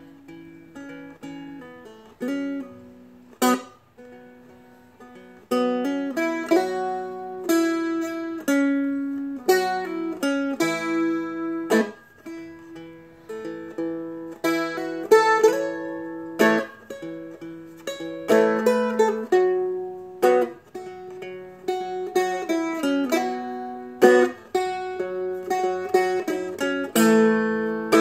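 Seagull Merlin, a fretted dulcimer-style instrument, fingerpicked: single notes and chords ringing into each other. It is played softly and sparsely for the first few seconds, then fuller and louder.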